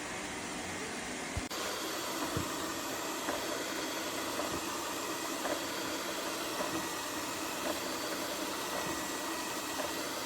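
Lefant robot vacuum cleaner running, a steady noisy hum of its suction motor and brushes. A click about a second and a half in, after which the sound turns brighter.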